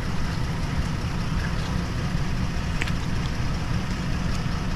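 Vehicle engine idling: a steady low rumble, with a couple of faint ticks about three seconds in.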